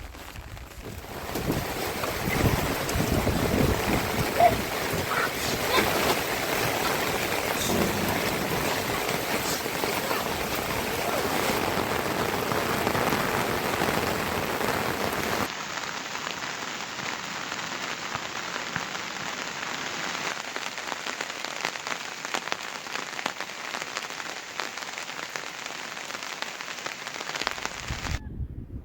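Steady rain falling, with many individual drops ticking through the hiss. About halfway through, the sound changes abruptly to a lighter, quieter rain.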